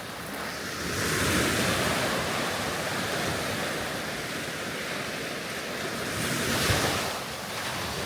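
Sea waves breaking and washing up the shore, swelling louder about a second in and again near seven seconds, with wind buffeting the microphone.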